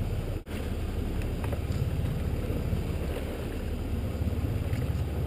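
Small fishing boat's engine idling with a steady low rumble, the sound cutting out for an instant about half a second in.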